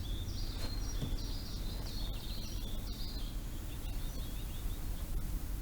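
A small songbird singing a quick series of short, high, repeated notes that stop about three seconds in, over a steady low outdoor background hum.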